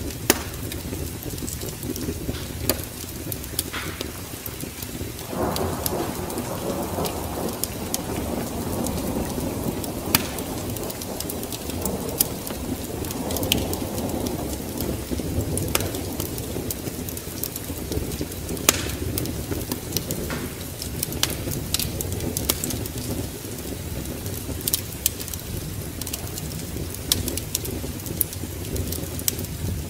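Rain with low rumbling thunder, and sharp pops from a crackling wood fire scattered throughout. A roll of thunder swells about five seconds in and dies away some ten seconds later.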